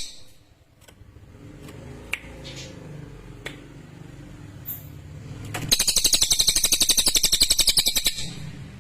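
Cililin bird singing a rapid, sharp trill of about a dozen high notes a second, starting about six seconds in and lasting about two and a half seconds. A low steady rumble and a few clicks fill the quieter first part.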